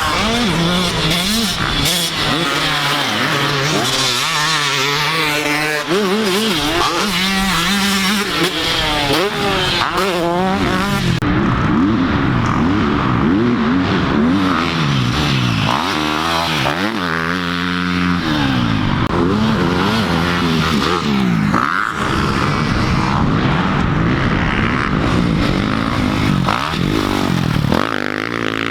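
Dirt bike engines revving up and down on a motocross track, their pitch rising and falling over and over, with several bikes overlapping at times.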